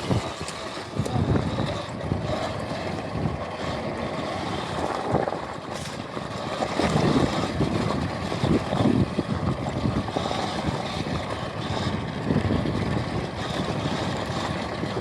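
Riding noise from an electric off-road motorbike: wind buffeting the microphone over a steady rush, with uneven low rumbles swelling and fading from the rough ground.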